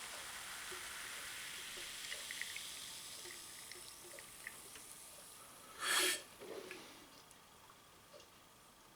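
Freshly poured carbonated soda fizzing in a glass: a soft hiss with small bubble pops that fades away. One short, louder noise comes about six seconds in.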